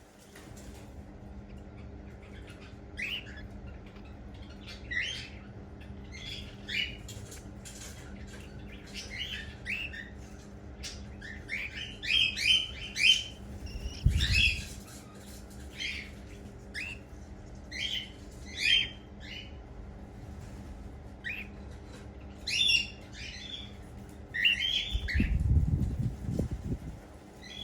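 Cockatiel chicks chirping: short, high calls in quick clusters every second or two, over a low steady hum. A low rumbling bump comes about halfway through and another near the end.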